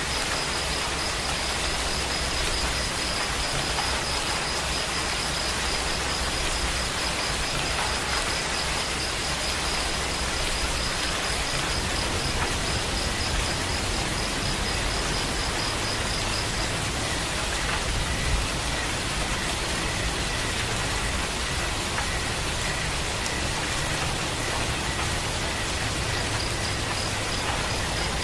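Steady rain falling, an even unbroken hiss. A faint high pulsing tone sits in the background; it drops out about two-thirds of the way through and comes back near the end.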